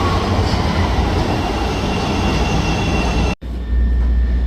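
Chicago 'L' Red Line train running on the rails: loud rumbling and rattling rail noise with a faint high squeal in the middle. About three seconds in the sound drops out for a moment and comes back as a steadier deep rumble.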